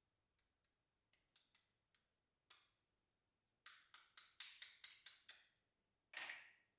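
Slime being pressed and squished, making a run of small sharp clicks and pops. They come a few at a time at first, then quicken to about five a second, ending in one longer squish near the end.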